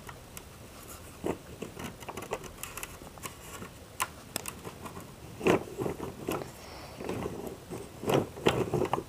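Irregular clicks, knocks and crunchy scraping of small hard objects being handled close by, sparse at first, then in louder clusters about five and a half seconds in and again near the end.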